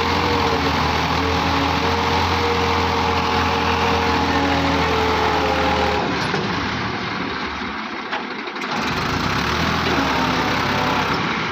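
Tractor diesel engine running hard under load in a tractor pull. Its low steady note holds for about six seconds, fades and eases for a few seconds, then comes back.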